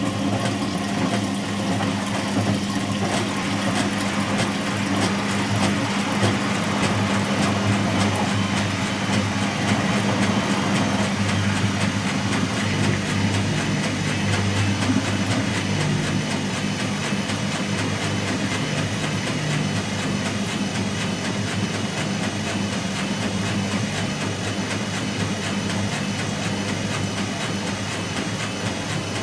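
Whirlpool H-axis top-loading washing machine running steadily, a constant motor hum with no break.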